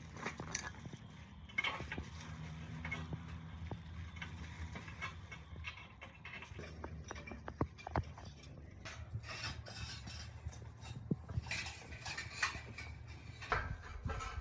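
Scattered mechanical clicks and knocks over a low steady hum, busier near the end.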